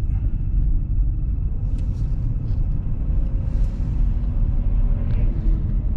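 Steady low rumble of a car driving over an icy road, heard from inside the cabin: engine and tyre noise.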